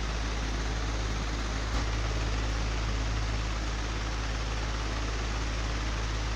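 Old, broken electric fan running steadily: a low hum under an even rush of air. A single short click about two seconds in.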